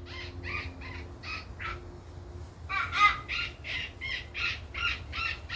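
Pileated woodpecker giving a long series of short, evenly spaced calls. They run at about two and a half a second at first, then grow louder and quicker, about four a second, from about halfway in.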